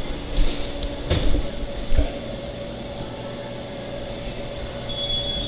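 Steady machine hum of a sandwich shop's counter area. There are a few dull thumps in the first two seconds and a short high beep near the end.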